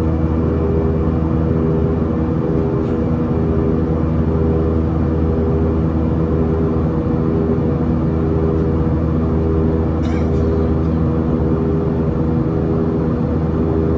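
Cabin of an Airbus A320-232 in flight: its IAE V2500 turbofan engines give a steady drone with a hum that pulses slowly, over the rush of air past the fuselage.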